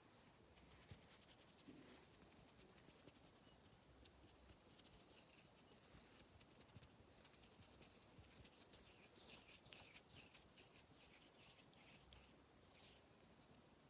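Faint, rapid, wet clicking ASMR mouth sounds close to a phone microphone, many clicks a second. The run stops about ten seconds in, and a few scattered clicks come near the end.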